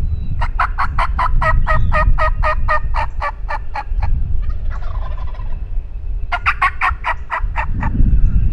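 Wild turkey calling: a long run of rapid, evenly spaced raspy notes, about six a second, then a shorter run about six seconds in, over a low rumble.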